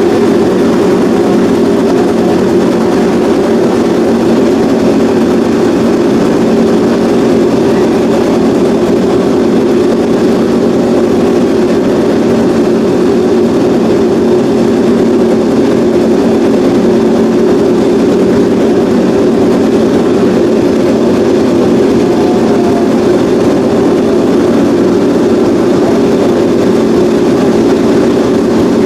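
Honda RC213V MotoGP racing motorcycle's V4 engine running at a steady, loud idle, holding one unchanging pitch with no revs.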